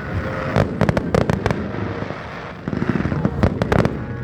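Fireworks display going off: quick runs of sharp bangs, one cluster about half a second in and another from about two and a half seconds in.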